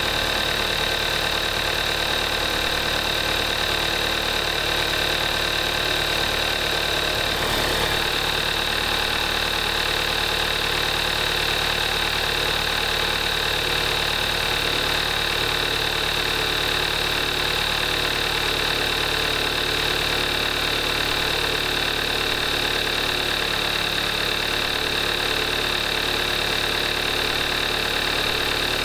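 2014 Kia Forte5's 2.0-litre GDI (gasoline direct injection) four-cylinder engine idling steadily while warming up after a cold start, at 38,300 miles on synthetic 5W-20 oil.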